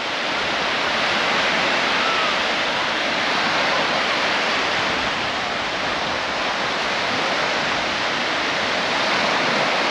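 Small waves of the Baltic Sea breaking and washing up on a sandy shore, a steady surf that swells and eases a little.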